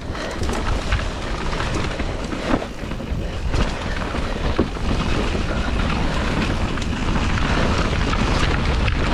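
Wind rushing over the microphone and a mountain bike rolling fast over a dirt trail, with a continuous low rumble and scattered knocks and clicks of the bike rattling over rough ground.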